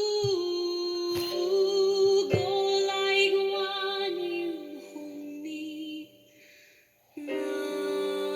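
A young woman singing a slow Welsh song in long held notes over a sustained accompaniment. The music fades almost to silence about six seconds in, then a held chord comes back.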